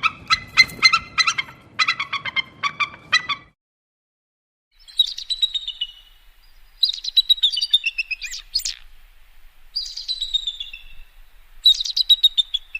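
Birds chirping: a fast run of repeated chirps for about three seconds, then, after a short pause, several high twittering phrases that each fall in pitch.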